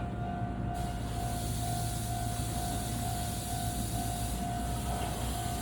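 Electric train at a station: a steady hum with a constant mid-pitched whine, and a hiss that comes in about a second in.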